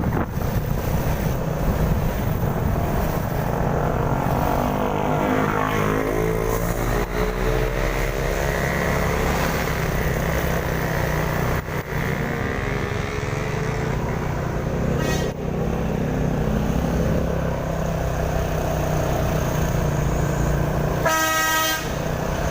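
Vehicle engines running in slow, jammed traffic on a steep climb, one engine's pitch rising and falling as it revs. A horn sounds for about a second near the end.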